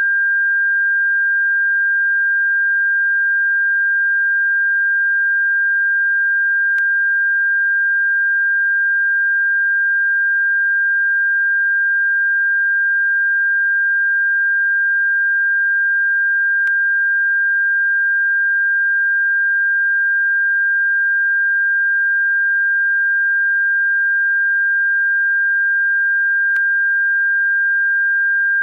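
A single steady, high-pitched electronic sine tone played as a bird-repellent frequency, unchanging in pitch and level. A faint click about every ten seconds.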